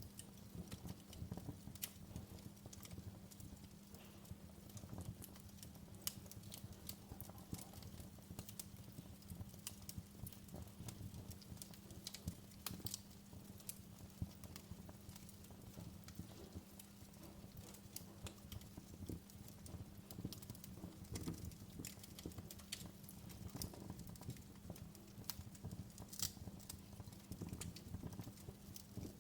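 Wood fire crackling in a fireplace: irregular sharp pops and snaps over a low, steady rumble and hum.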